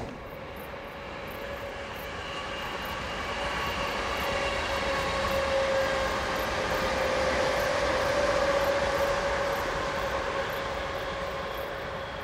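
Passenger train passing: a steady rumble with a held whine that grows louder to a peak about eight seconds in, then eases off.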